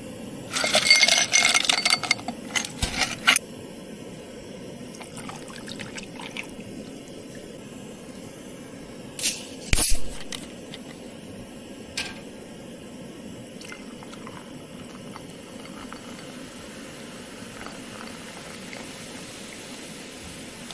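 Liquid pouring for about three seconds, then two sharp knocks around ten seconds in and a single click a little later, over a steady low background noise.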